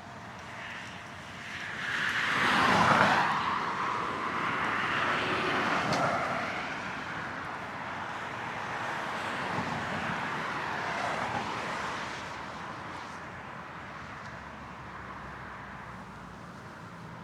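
Road traffic passing: one loud vehicle swells up and fades about two to three seconds in, then several quieter passes follow, mostly tyre and engine noise over a steady background hum.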